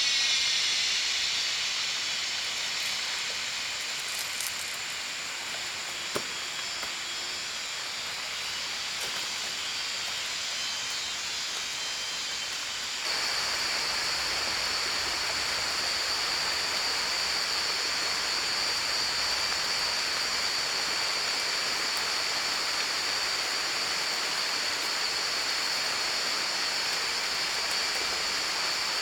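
A steady rushing hiss like running water, with faint music fading out at the start. About halfway through it jumps louder and a steady high-pitched whine joins it.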